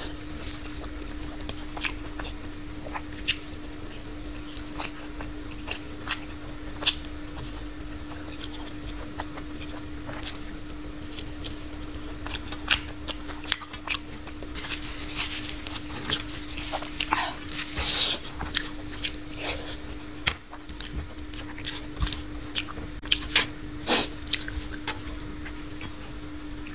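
Close-miked chewing and mouth smacks of a person eating a meal with her fingers, with scattered wet clicks that come thicker in the second half and a few sharp ones near the end. A steady low hum sits under it.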